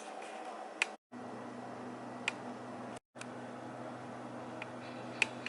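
Steady low hum with a few short sharp clicks, broken twice by brief dead silences where the recording is cut.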